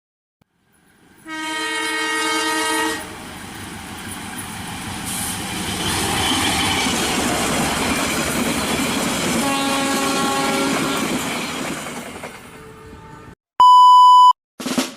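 Train horn blowing for a couple of seconds, then a train running past with a steady rumble and a second horn blast, fading out. Near the end, a short loud steady beep.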